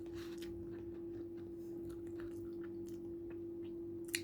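Soft chewing and mouth sounds of someone eating fried chicken, over a steady low hum, with a short sharp click near the end.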